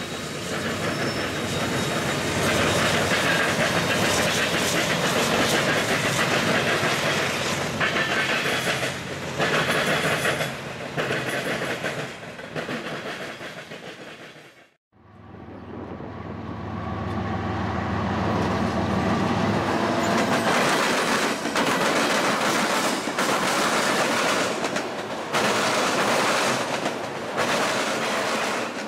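Freight train cars passing close by: steel wheels clacking over rail joints over a steady rumble. The sound breaks off about halfway through and a second passing train builds up, with a heavier low rumble for a few seconds before the wheel clatter returns.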